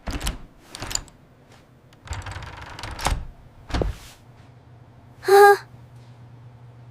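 A series of sharp knocks and clicks with a short scraping rustle, then one brief pitched vocal sound about five seconds in, over a faint low hum.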